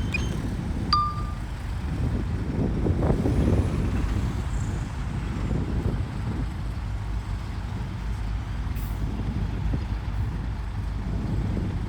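Heavy diesel earthmoving machinery running with a steady low rumble that swells a few seconds in. A short high beep sounds about a second in.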